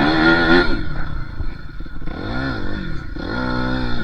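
Dirt bike engine revving, its pitch rising and falling a few times as the throttle is blipped.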